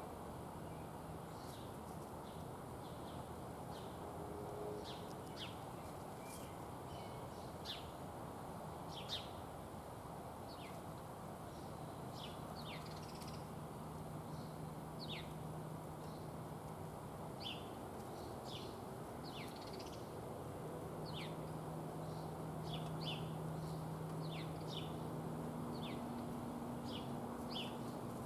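Small songbirds giving short, sharp, downslurred chip calls, dozens of them scattered irregularly, over a steady low background rumble.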